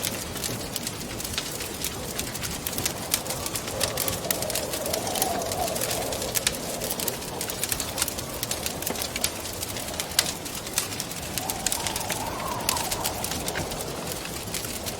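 Wood fire crackling with frequent sharp pops over a steady rush of wind. Twice the wind howls in a wavering tone that rises and falls, once around four to six seconds in and again near the end.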